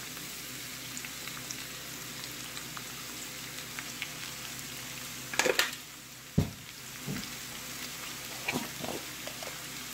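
Cut vegetables sizzling steadily in hot coconut oil in a kadai, with a few light clicks and knocks about halfway through.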